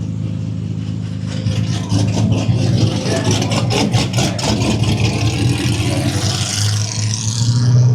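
Tuned twin-turbo Nissan GT-R engines running rough and loud, with a quick run of sharp crackles about two seconds in and a hiss near the end. The sound is rowdy.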